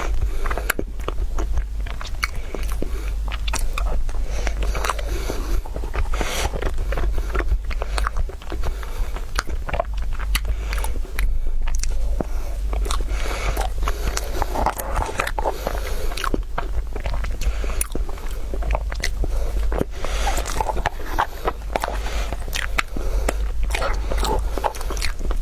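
A person biting and chewing food, with frequent crunches and sharp mouth clicks in an irregular rhythm. A steady low hum sits underneath.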